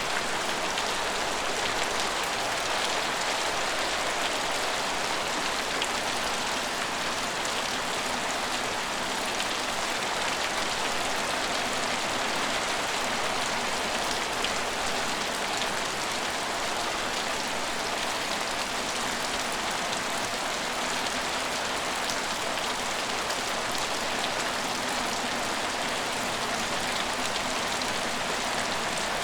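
Steady rain falling and pattering on surfaces, an even hiss of many drops with no let-up.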